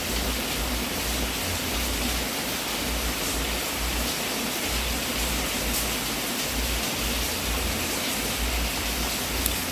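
Wood fire burning in a fireplace: a steady hiss with a few faint crackles, one sharper pop near the end.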